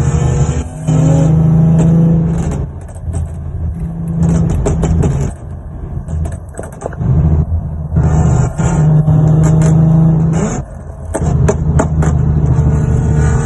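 Car engine and exhaust running loud under throttle. The note holds steady for stretches of a couple of seconds and drops away briefly about four times.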